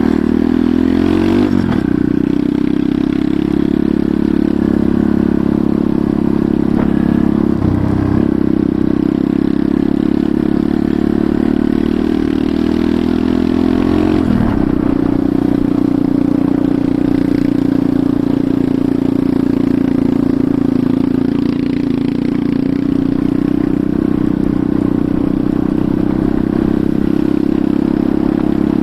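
Enduro motorcycle engine running under way, its note shifting three times in the first half and then holding steady.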